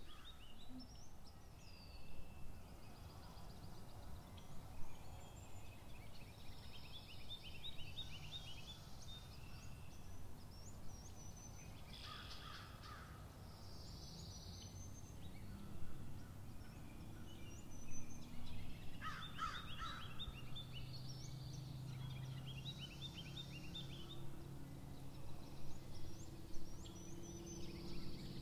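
Faint outdoor birdsong: many short chirps and trills, with two louder rattling calls about 12 and 19 seconds in.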